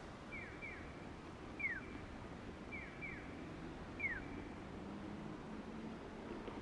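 A bird calling with short whistled notes that slide downward, six in all: two pairs and two louder single notes, over a low steady rumble.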